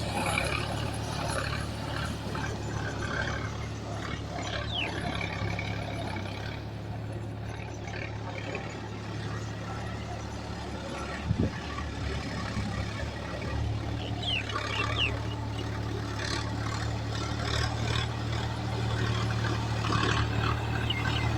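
Heavy diesel earth-moving machinery running steadily, with a brief knock about 11 seconds in.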